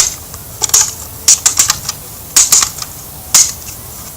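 A series of sharp clicks and clacks, in quick clusters about every second.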